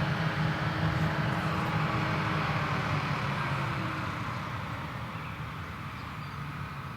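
Krone Big X 1100 forage harvester's V12 diesel engine running at full power as the machine chops through a standing triticale crop, a steady drone that grows fainter from about halfway through as the harvester moves away.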